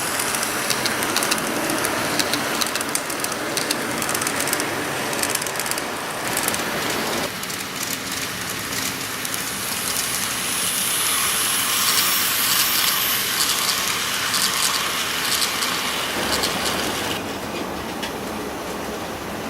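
E655 series electric train running past on the rails, with rapid wheel clicking over the track and a steady rush. The sound shifts about seven seconds in and fades somewhat near the end.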